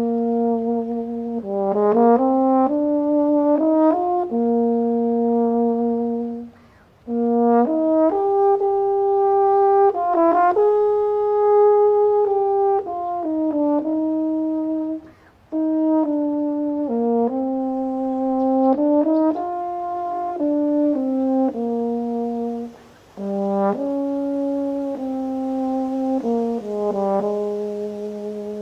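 A solo euphonium playing a slow melody of held notes, in phrases broken by three short pauses.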